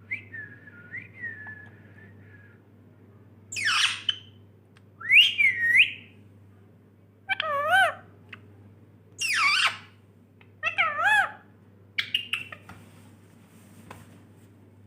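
Pet Indian parrot calling: a soft wavering whistle at first, then six loud, short squawking calls spaced a second or two apart.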